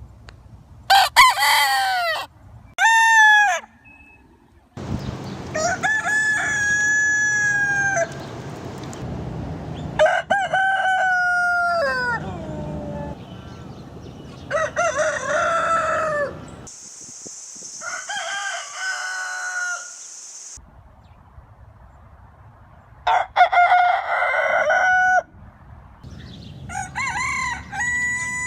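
Roosters crowing, about eight cock-a-doodle-doo crows one after another, each a loud pitched call that holds and then falls away at the end. The crows come from separate recordings spliced together, with the background noise changing between them and a steady high hiss under one crow around the middle.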